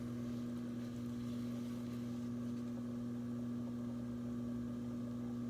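Electric potter's wheel motor humming steadily as the wheel spins.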